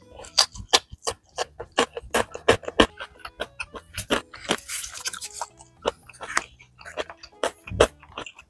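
Close-miked eating of spicy malatang: rapid, irregular wet chewing and mouth smacks, over quiet background music.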